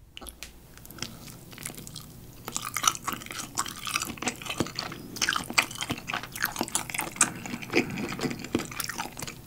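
Wet mouth sounds of chewing a steamed shrimp dumpling close to the microphone: quick clicks and squelches, sparse at first and then much busier from about two and a half seconds in.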